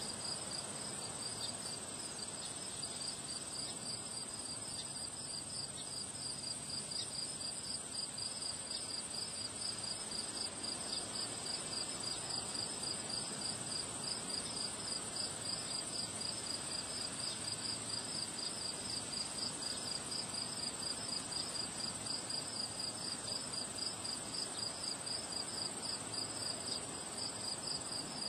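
Crickets chirping: one steady high trill, and a second, lower song in quick regular pulses, over a low rush of wind.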